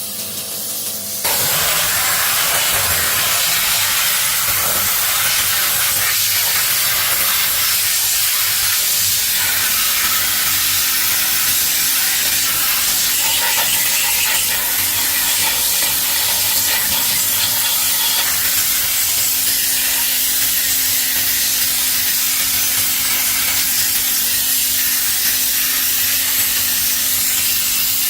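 Loud, steady hiss of a spray that starts abruptly about a second in and runs on without a break.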